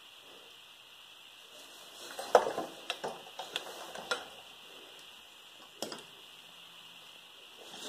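A quick run of light, sharp clicks and knocks from hand tools being handled around the seized rear wheel hub, the first the loudest, then one more click a couple of seconds later.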